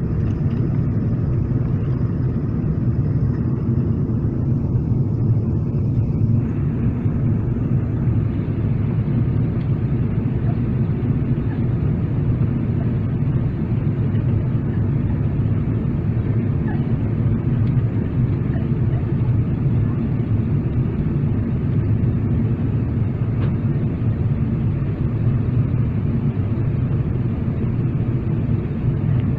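Steady low rumble of engine and airflow noise inside the passenger cabin of a Boeing 777-300ER in flight, its GE90 turbofans running evenly.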